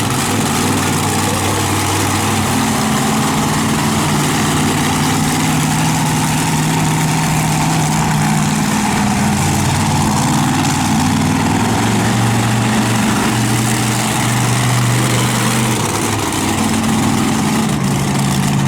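Monster truck engine running loud and continuously, its pitch holding for a few seconds at a time and then shifting up or down as the revs change.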